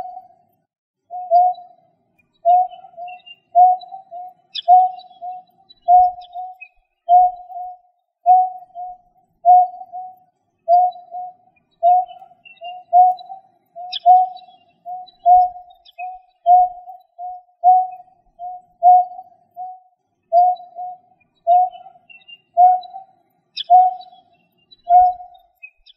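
A bird calling a short, low, hollow note over and over, about once a second, some notes given as quick doubles, in an unbroken steady series.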